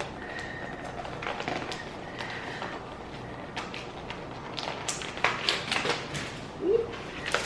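Crinkling and tapping as a snack packet holding a single chip is opened and handled: a run of short, sharp crackles that grows busier in the second half.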